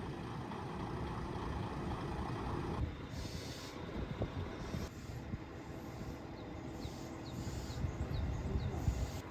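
Local train rumbling on the rails, with a brief hiss of air about three seconds in and a few faint, short high squeaks later on.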